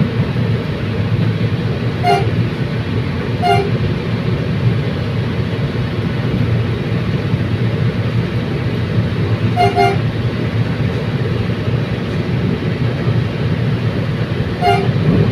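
Commuter train running with a steady low rumble, its horn giving short toots: two a second and a half apart, a quick double toot near the middle, and one more near the end.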